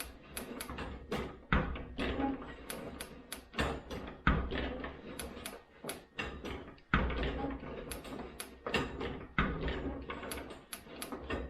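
Tooth setter clicking and clacking around a freshly sharpened bandsaw blade as each tooth is set in turn: a heavier clack about every two and a half seconds with lighter clicks between, clickety click click.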